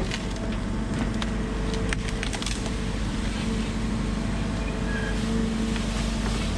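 Heavy machinery engine running steadily, with sharp cracks of wood splintering, most of them in the first couple of seconds.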